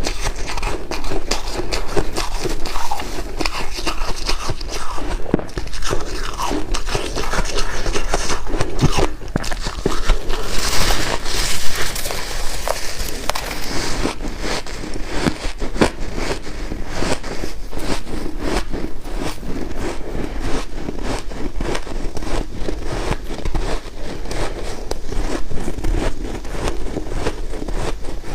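Close-up crunching and chewing of white ice: a steady, dense run of sharp cracks and crackles, with a hissier, brighter stretch about halfway through.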